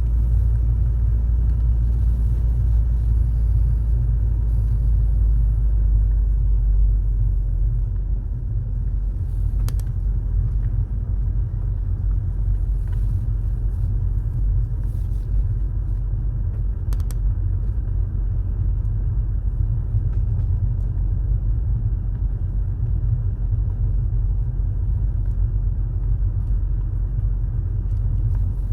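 Car driving, a steady low rumble of engine and road noise, easing slightly about a third of the way in, with a couple of faint clicks.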